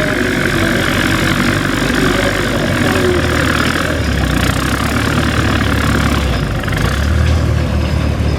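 Antique tractor engine running, its low engine note shifting a few times, over a steady outdoor din.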